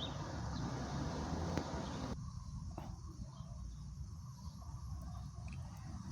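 Outdoor spring ambience: a steady low rumble with a few faint, short bird chirps. A broad hiss cuts off abruptly about two seconds in.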